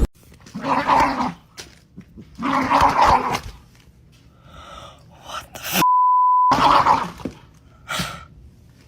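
A few short voice-like calls, two longer ones in the first half and two briefer ones near the end, with a single steady electronic beep lasting under a second about two-thirds of the way through.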